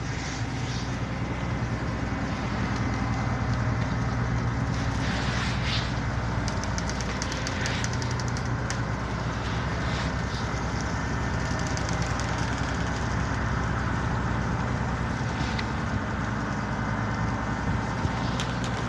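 A large engine running steadily at idle, a deep even hum, with scattered faint high ticks around the middle.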